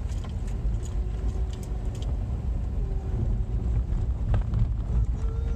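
Car moving, heard from inside the cabin: a steady low rumble of engine and road noise, with a few rattles and knocks and a faint on-and-off hum.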